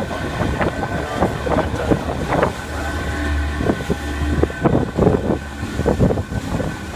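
Boat engine running steadily with a low hum, with wind buffeting the microphone in irregular gusts.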